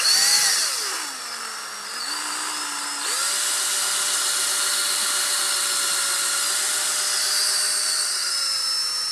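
Electric hand drill with a 3/16-inch bit boring through a helmet shell, its motor whining steadily. The pitch slides down over the first second or two as the bit loads up, jumps up about three seconds in and holds level, then sags a little near the end.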